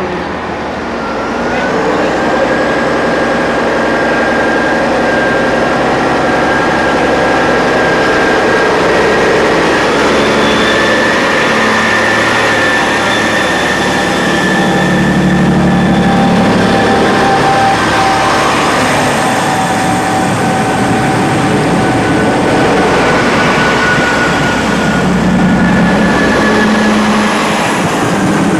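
Passenger train running, heard from on board: steady rumble and rail noise with a high whine that sets in a second or two in and drops away near the end.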